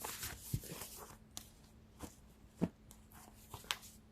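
Tarot cards being shuffled and handled: an uneven scatter of soft clicks and flicks, with a few sharper taps.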